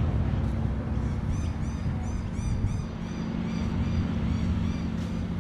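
A small bird giving a quick series of high chirps, starting about a second in and running for several seconds, over a steady low rumble.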